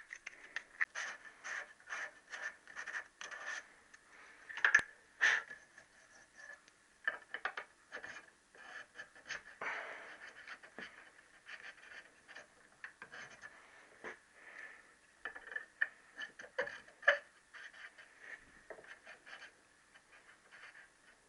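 Hand reamer worked back and forth through a Triumph T120R conrod's little-end bush: a long run of short scraping strokes, with a few sharper metal clicks.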